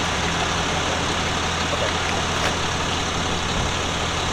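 Vehicle engine idling steadily with a low even hum, under a steady hiss.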